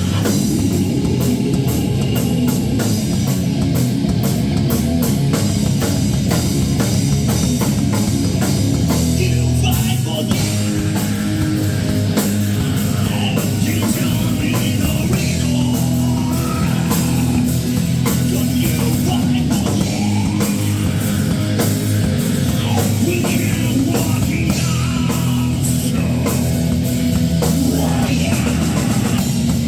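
A rock band playing live: electric guitars, bass and drum kit at a loud, steady level.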